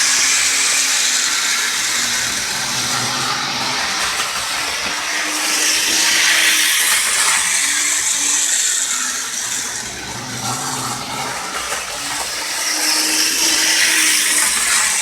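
HO scale model train running fast on its track: a loud, steady whirring rush with a faint low motor hum that wavers in pitch.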